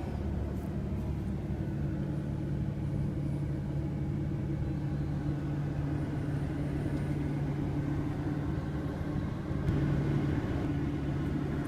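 Steady low rumble of a car idling, with a constant low hum.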